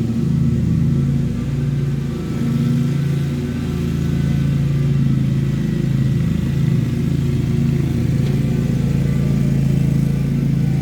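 Lawn mower engine running steadily while mowing, its pitch wavering slightly up and down.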